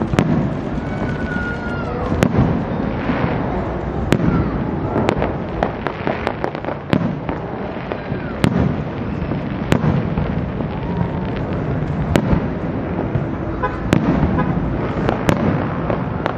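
Aerial firework shells bursting in irregular succession, about one or two sharp bangs a second, over a continuous low rumble of echoing reports.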